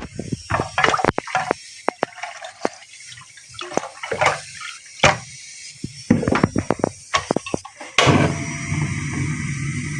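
Kitchen utensils and cookware clattering with a run of sharp knocks, then water running steadily from about eight seconds in.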